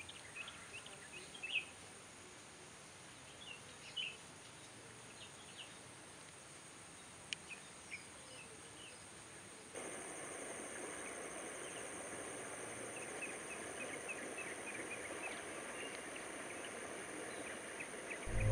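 Faint outdoor field ambience with birds chirping in short scattered calls. About ten seconds in the background gets louder, with a steady high whine and a bird's quick repeated chirps.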